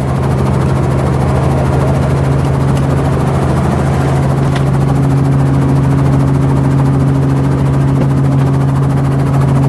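Helicopter's turbine engine and rotor running steadily, a loud, even low hum with a fast, regular beat; a second, higher hum joins about halfway through.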